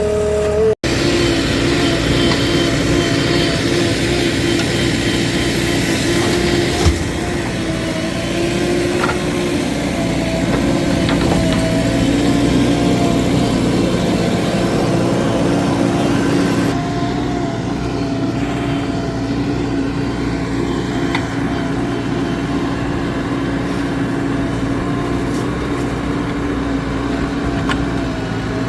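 Heavy diesel engine of earthmoving machinery running steadily with a constant hum, with a single knock about seven seconds in.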